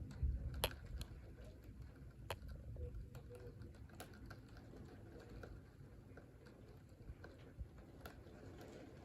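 Thunder rumbling low and dying away over the first second or two, with scattered sharp clicks and taps throughout.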